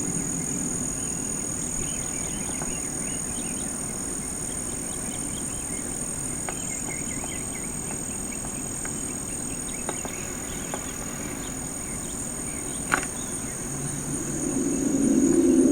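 Outdoor recording of a low rumble that fades, then swells again near the end, with birds chirping and a steady high-pitched whine. A single sharp click comes about 13 seconds in.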